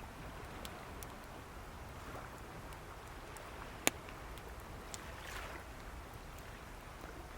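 Wood fire crackling with small snaps and one sharp loud pop about four seconds in, over waves washing softly on the shore.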